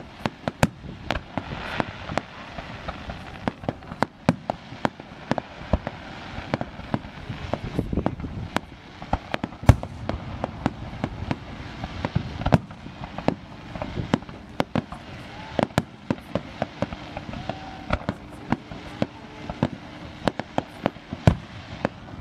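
Aerial fireworks shells bursting in an irregular string of sharp bangs, about two a second, over a low steady background noise.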